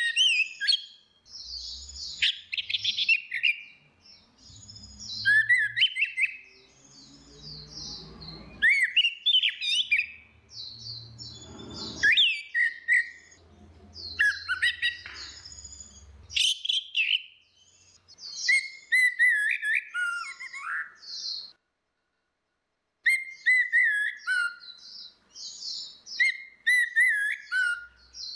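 Orange-headed thrushes singing: a varied stream of loud, clear whistled phrases with rapid chirps, glides and trills, coming in bursts with short pauses. There is low rumbling and thudding underneath in the first half, and the sound drops out for about a second past the middle.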